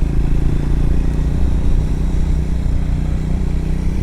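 Triumph Scrambler motorcycle engine running at a steady pace while riding along a wet gravel road.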